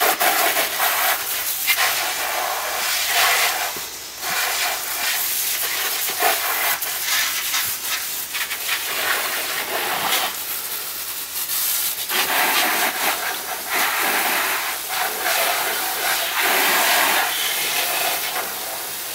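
Water spraying from a garden hose onto a motorbike, rinsing off soap: a steady hissing spray that dips and returns a few times.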